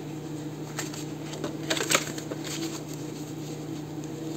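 Paper being handled: a few light rustles and clicks about two seconds in, over a steady low hum.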